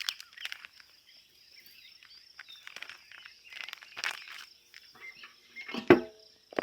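Steady high-pitched insect drone, with scattered rustling and handling noises and a sharper knock about six seconds in.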